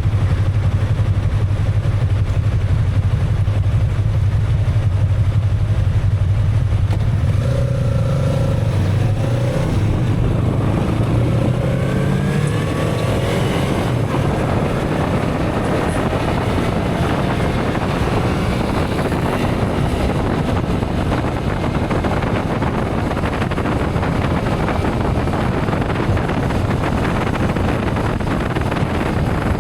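Motorcycle engine running with a steady low hum, then pulling away with its pitch rising about ten seconds in. After that, rushing wind noise over the microphone takes over as it rides on.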